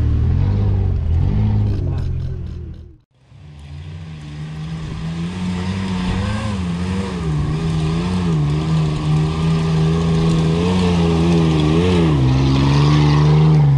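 Off-road 4x4 engines working on a forest trail, the engine pitch rising and falling again and again with the throttle. The sound drops out briefly about three seconds in, then an engine revs up and down as a vehicle climbs.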